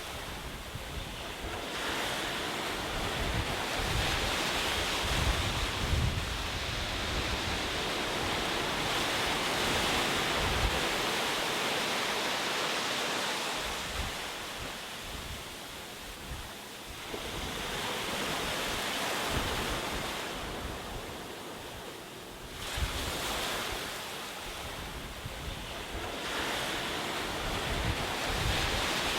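Ocean waves breaking and washing on a shore, the surf swelling and easing in slow surges every several seconds, with low rumble like wind on the microphone.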